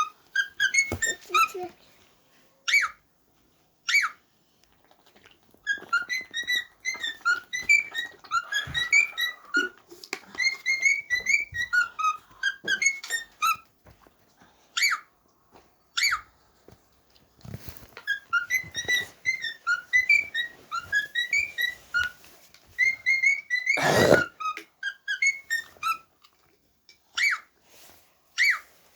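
Cockatiel whistling in bursts of short, quick chirping notes with pauses between them, the chattering whistle of a bird in breeding season. A brief loud noise cuts in near the end.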